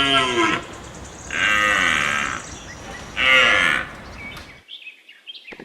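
A deer calling: long, moo-like bellows, with one ending about half a second in and two more following, then a brief lull near the end.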